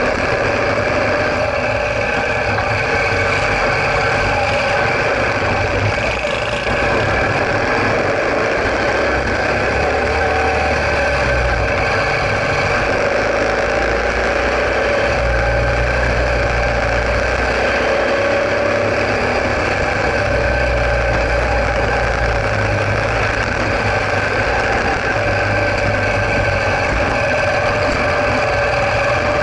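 Sidecar motorcycle's engine running steadily while riding.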